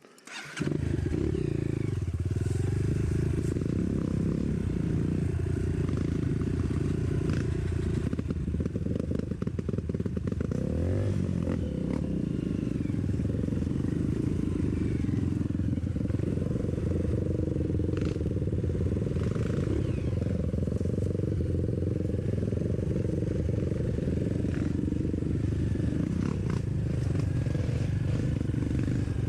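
Dirt bike engine running, loud and steady, cutting in abruptly about half a second in.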